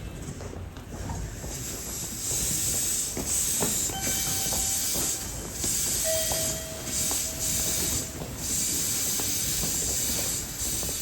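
Electric train at a station, with pulses of loud air hiss and a few short squealing tones from the wheels or brakes over a low rumble.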